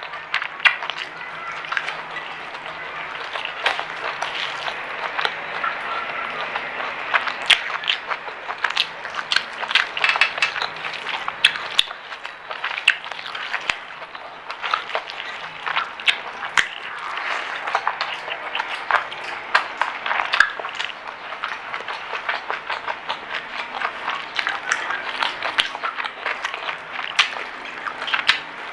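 Close-up chewing and crunching of crispy fried food, with many irregular sharp crunches and clicks throughout.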